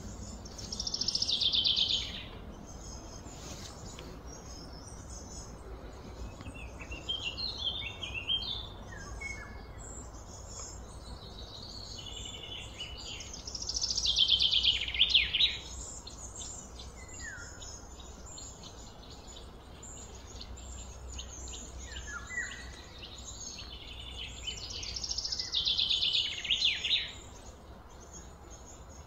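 Wild bird calls: a loud rapid trill that falls in pitch, heard three times about twelve seconds apart, with short chirps in between, over a steady low hum.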